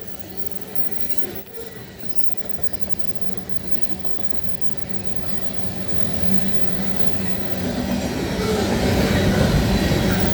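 Freight train's cars rolling past, wheels clattering over the rail joints with some wheel squeal. It gets steadily louder, most of all in the last few seconds.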